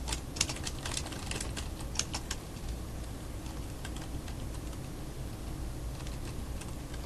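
Computer keyboard typing: a quick run of key clicks for the first two and a half seconds, then stopping, leaving a steady low hum.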